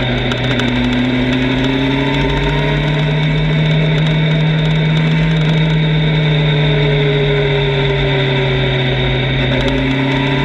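Motorcycle engine running at a steady, even pace during a ride, with fainter engine tones drifting slowly up and down.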